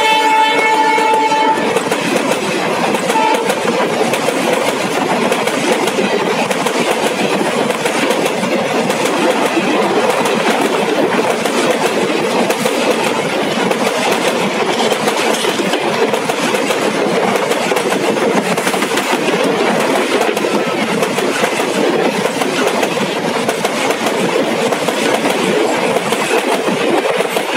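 Indian Railways express train's coaches running past close by, wheels clattering continuously over the rail joints. A train horn sounding at the start stops about a second and a half in.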